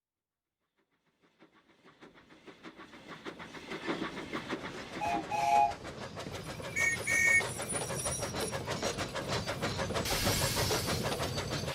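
Steam locomotive approaching: a rhythmic chuffing fades in and grows louder. There are two short double whistle toots, a lower one about five seconds in and a higher one about seven seconds in, and a loud hiss of steam near the end.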